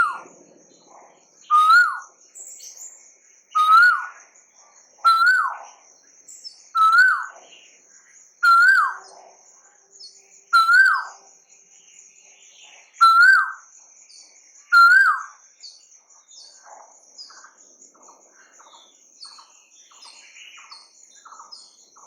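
A bird calling: a short whistled note that rises and then drops, repeated nine times about every one and a half to two seconds and stopping about fifteen seconds in, after which only faint short chirps continue. A steady high-pitched trill runs underneath throughout.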